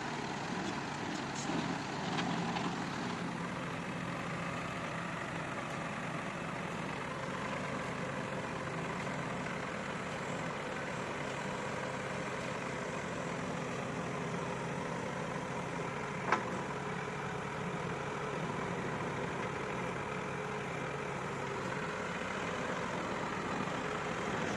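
Tow truck engine idling steadily, with one sharp click about 16 seconds in.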